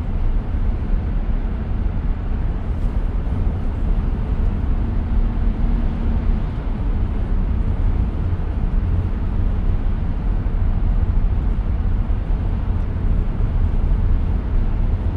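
Steady road and tyre noise heard inside the cabin of a 2023 Tesla Model X while driving, a low even rumble with no engine sound, as the car is electric.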